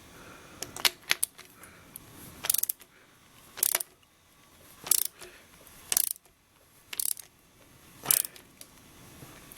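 A hand ratchet wrench clicking in short bursts about once a second as it is swung back and forth, tightening a threaded coolant temperature sensor into the engine block.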